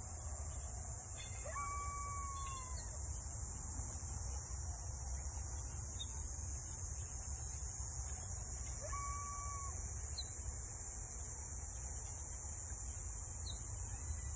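Outdoor ambience: a steady low rumble and a steady high hiss. Over it come two drawn-out calls about seven seconds apart, each a brief rise into a held tone lasting about a second, and a few faint short chirps from birds.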